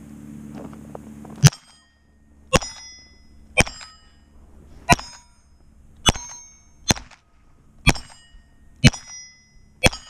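Nine pistol shots fired slowly, about one a second, most followed by the ring of a struck steel plate target.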